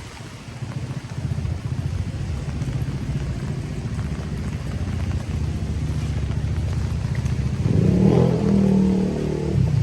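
A motor vehicle's engine running close by. It grows louder about a second in and is loudest for a couple of seconds near the end.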